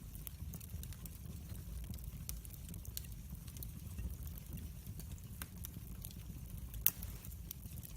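Wood fire in a fireplace crackling, with scattered small pops over a low steady rumble of the flames, and one louder pop near the end.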